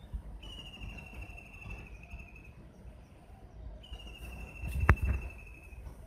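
Two long, high, rapid trills at one slightly falling pitch, each about two seconds, from the unidentified small bird called 'burung tir' after its 'tir tir tir' call. A sharp click with a low thump comes about five seconds in.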